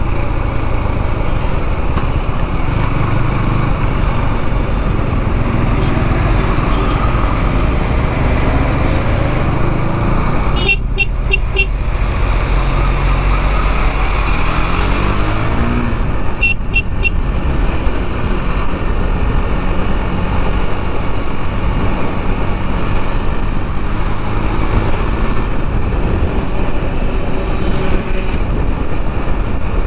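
KTM Duke 390 single-cylinder motorcycle riding through traffic, its engine and heavy wind rumble on the camera's microphone. A horn gives a quick string of short beeps twice, about eleven seconds in and again about sixteen seconds in.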